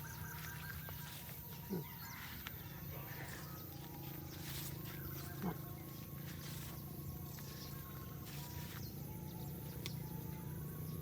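A dog chewing bread, with scattered wet smacks and clicks over a steady low hum. Two brief falling squeaks, about two seconds in and again about five and a half seconds in, are the loudest sounds.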